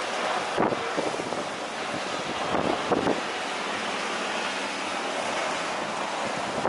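Strong wind blowing over the microphone: a steady rushing noise broken by a few short, louder gusts buffeting the mic.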